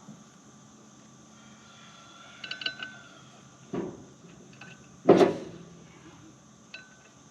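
Metal tools and parts clinking with a brief ringing, then a dull knock and a heavy metal clunk about five seconds in, the loudest sound, followed by one more small clink: hand work on the skid steer's track undercarriage.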